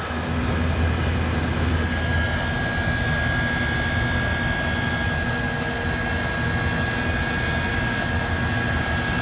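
Trane XE1000 R22 heat pump coming on and running: a steady compressor hum under the even rush of the condenser fan. A thin steady whine joins about two seconds in.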